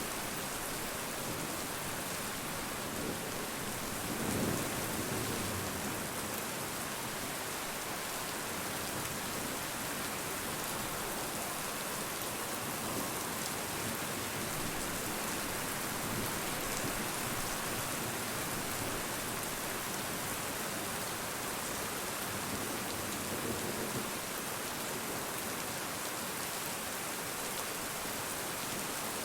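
Steady rain falling, an even hiss of many drops, with a brief louder low swell about four seconds in and a fainter one near the end.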